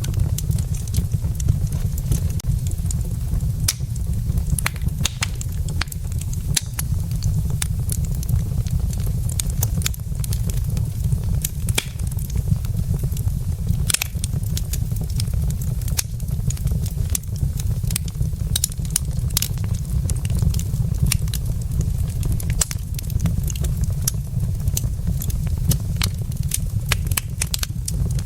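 Wood fire burning in a fireplace, crackling with many short, irregular pops over a steady low rumble.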